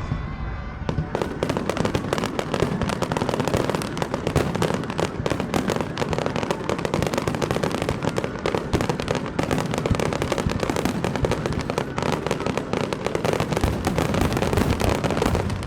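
Aerial fireworks display in a dense barrage: rapid, overlapping shell bursts and crackle with no gaps. It dies away just before the end.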